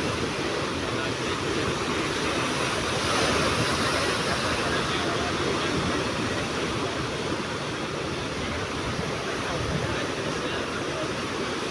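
Sea surf washing onto the shore in a steady rush, swelling slightly about three seconds in.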